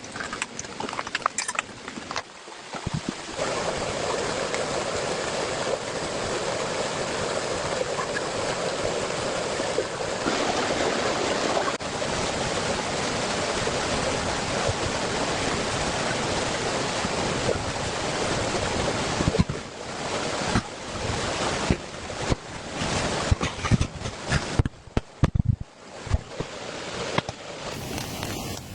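Heavy rain pouring down in a steady hiss. In the last third it breaks up, with scattered short knocks and brief lulls.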